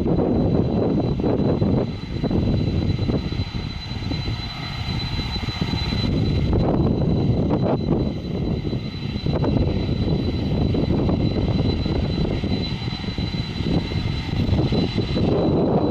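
Airliner taking off: its engines run at takeoff power as a loud, steady rumble with a high whine held through it.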